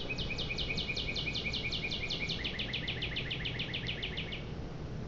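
A songbird singing a fast trill of short, high, downward-sweeping notes, about seven a second, stepping lower in pitch about halfway through and stopping near the end. Under it, a ceiling fan runs steadily on medium speed.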